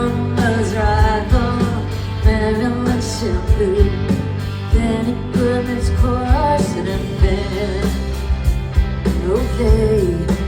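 Live band music: a melody line over steady bass and a regular drum beat.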